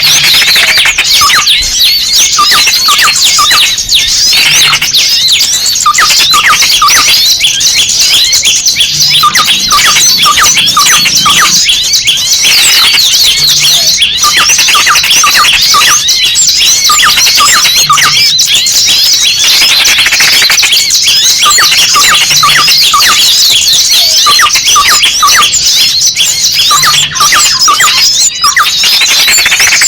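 Small birds chattering and squeaking loudly and without pause: a bird-lure recording of a pinned, distressed small bird's rapid high calls amid a noisy flock. The calls repeat in a loop of about four and a half seconds.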